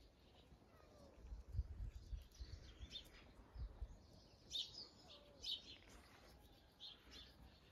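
Faint, short, high bird chirps, clustered around the middle, over quiet outdoor background. A run of low thumps close to the microphone comes in the first half.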